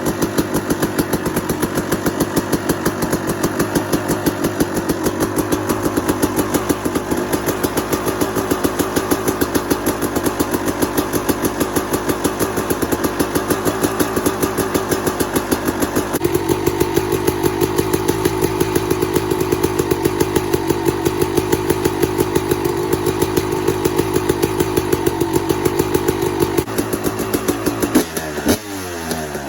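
Kawasaki KX250 motocross bike engine idling after a cold start, with a rapid, even beat that shifts slightly about halfway through. Near the end it is revved, the pitch rising and falling.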